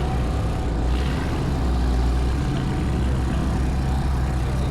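An engine idling steadily, a low even hum with no revving.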